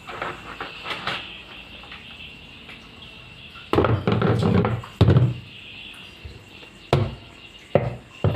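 Knocks and clatter of washing-machine parts being handled and fitted back into place during reassembly. A loud stretch of clattering comes about four seconds in, followed by a few single knocks near the end.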